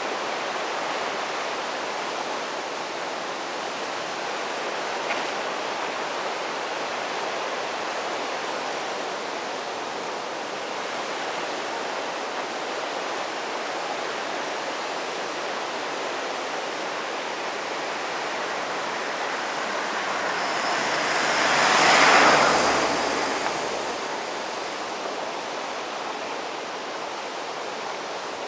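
Steady rushing outdoor noise, like a river or wind. A vehicle passes close, swelling over a few seconds to its loudest about twenty-two seconds in and then fading.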